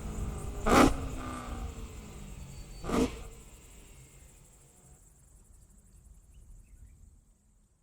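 Straight-piped BMW E92 M3's S65 V8 engine note falling and dying away, with two short loud bangs about two seconds apart, then the sound fades out.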